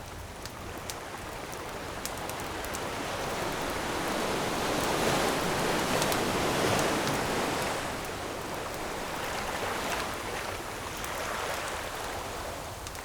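An ocean wave washing in and breaking on the shore, swelling to its loudest about halfway through and then receding. Campfire crackle pops through it in small sharp snaps.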